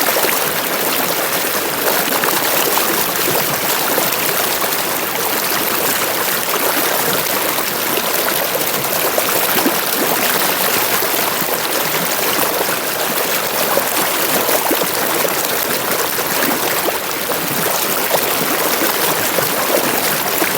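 Stream water running over rocks, a steady rushing and splashing.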